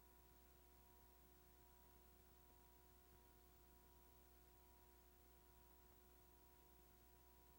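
Near silence: only a faint steady electrical hum and hiss, with no sound from the scene.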